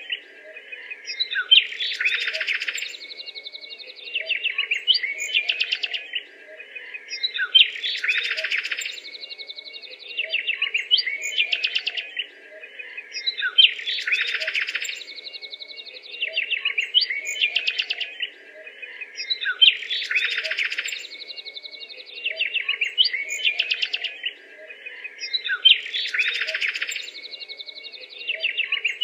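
Small birds chirping and twittering in quick trills, with a louder burst of chirping that recurs almost identically about every six seconds.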